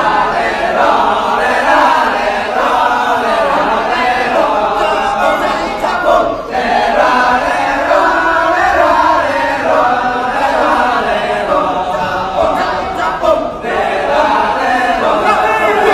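Kecak chant: a large group of voices chanting together without instruments, a continuous dense mass of voices with two brief lulls, about six and thirteen seconds in.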